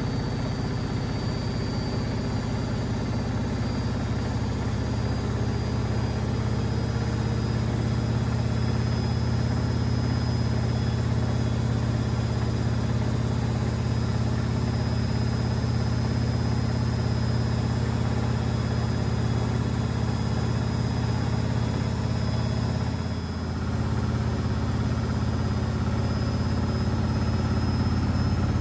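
Beko washing machine spinning its drum at high speed: a steady low hum with a thin motor whine that creeps slowly upward in pitch, with a brief dip in level about 23 seconds in.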